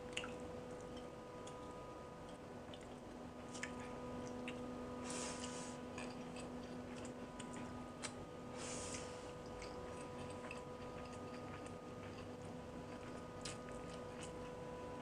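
A person eating pakhala bhata, fermented rice soaked in water, by hand: quiet chewing with many small wet mouth clicks, and two short hiss-like sounds about five and nine seconds in.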